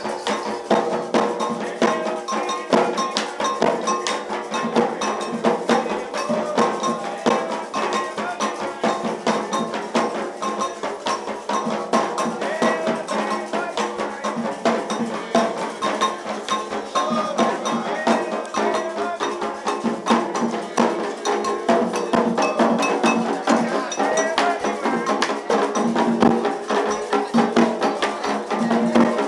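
Candomblé ritual music: hand drums and an agogô bell struck in a fast, steady rhythm, with voices chanting over it.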